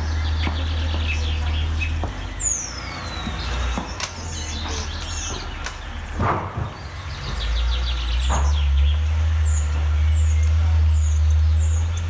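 Wild songbirds singing and calling: a long descending whistle about two seconds in, scattered chirps and trills, and a run of about six short, high, down-slurred notes in the second half. A steady low rumble runs underneath and is the loudest thing.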